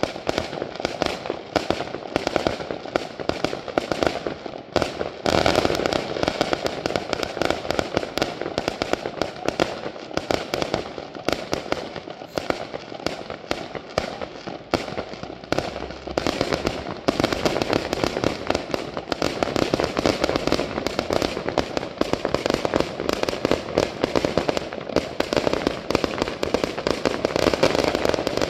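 Fireworks display: a continuous barrage of rapid bangs and crackle. It thickens into a denser volley about five seconds in and again from about seventeen seconds.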